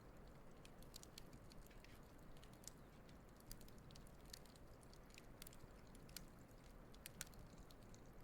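Wood fire burning with faint, irregular crackles and small pops over a low steady hiss of the flames.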